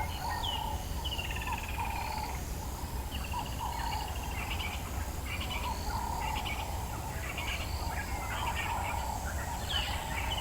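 Dawn chorus in the African bush: several birds calling at once, including a repeated trill that slides downward in pitch, with lower calls repeating underneath and a steady high insect drone.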